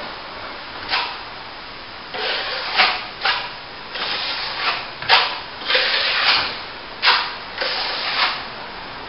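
Steel plastering trowel scraping over a wet top coat of plaster on plasterboard in a run of strokes, about one a second, some short and sharp and some drawn out.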